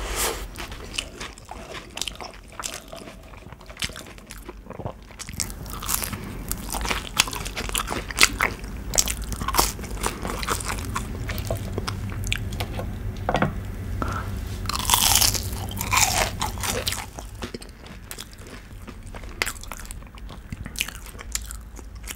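Close-miked eating of fast food: chewing a burger, then many sharp, crisp crunches from biting and chewing breaded fried coconut shrimp.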